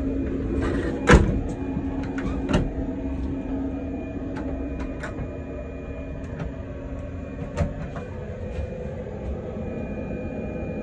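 Steady low rumble of a Class 395 electric train running, heard inside its toilet cubicle, with several sharp clicks and knocks. The loudest knock comes about a second in, and smaller ones follow near two and a half and seven and a half seconds.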